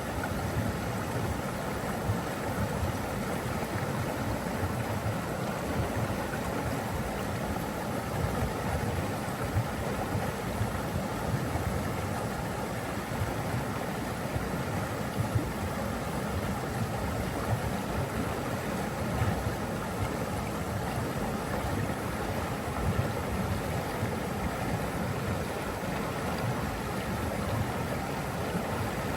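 Flowing water rushing steadily, as of a stream or waterfall.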